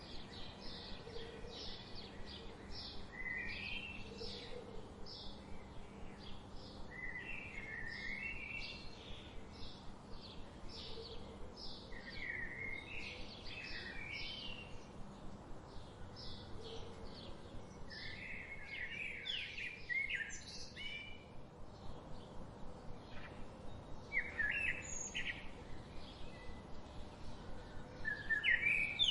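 Wild birds singing: one bird keeps up a fast, even series of high chirps, about two a second, while others add short bursts of lower warbling phrases every few seconds, over a soft hiss of background noise.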